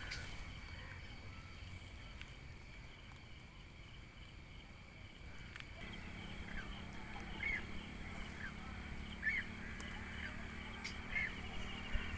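Quiet rural waterside ambience: a bird gives short chirps, roughly one a second, starting about halfway through, over a faint steady high-pitched buzz.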